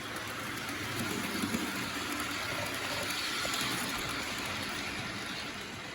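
A train running along its track: a steady rolling, rushing noise with a low rumble underneath.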